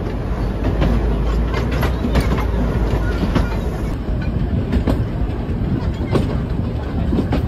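Tourist train carriage running along the track, with a continuous rumble and irregular clacks of the wheels over the rails.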